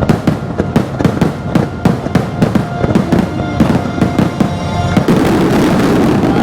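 Fireworks finale: a rapid string of explosions, several bangs a second, over the show's orchestral soundtrack. About five seconds in it thickens into a dense, continuous noise.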